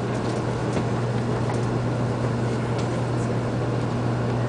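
Steady interior noise of a Shinkansen train car: a constant low hum under an even rumble, with a few faint ticks.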